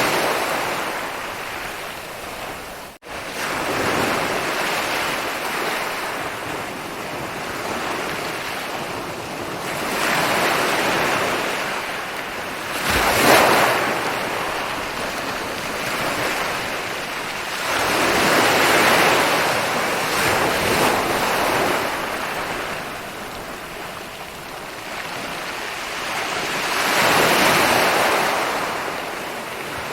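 Ocean waves rolling in and breaking on a beach, the surf swelling and ebbing every several seconds, with a louder crash about thirteen seconds in. A brief dropout in the sound about three seconds in.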